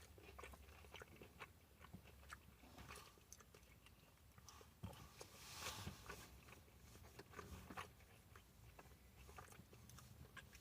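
Faint close-up sounds of a person chewing a breaded chicken fry: soft, irregular mouth clicks and light crunches.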